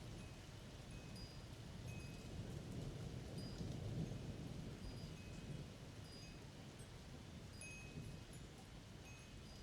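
Wind chimes tinkling faintly and irregularly, single clear notes at a few fixed pitches, over the low rumble of a thunderstorm that swells about four seconds in.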